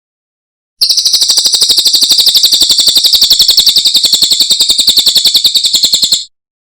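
Cililin songbird singing one long, rapid, even trill of about fourteen notes a second, high-pitched and loud, starting about a second in and stopping abruptly near the end.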